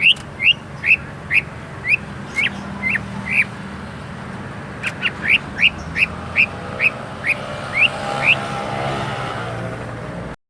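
Cucak ijo (greater green leafbird) singing a run of short, rising whistled notes, about two or three a second, pausing briefly about three and a half seconds in and then resuming. A steady low hum lies underneath, and the sound cuts off abruptly just before the end.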